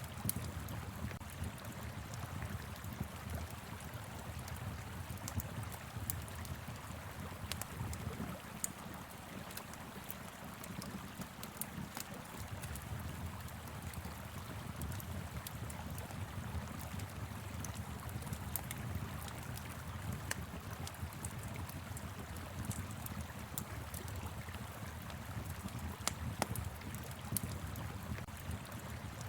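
Wood fire crackling with scattered sharp pops over the steady rush of a flowing river and a low rumble of wind.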